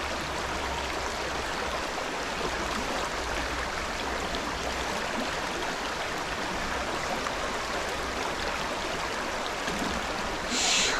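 Steady rushing of a small stream's flowing water, with a brief louder hiss near the end.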